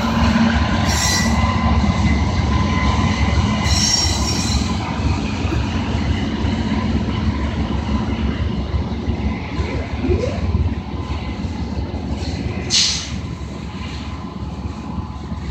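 Freight train's covered hopper cars rolling past: a steady rumble of wheels on rail with thin, high wheel squeal running over it. About thirteen seconds in there is one short, sharp screech.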